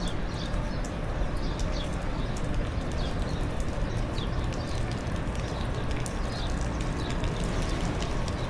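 Footsteps on pavement over a steady outdoor din, with short high chirps of small birds every second or so.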